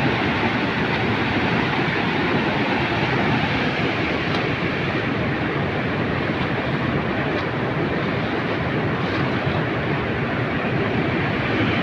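The Ganga near its source rushing in a fast, turbulent torrent: a loud, steady rush of churning white water with no let-up.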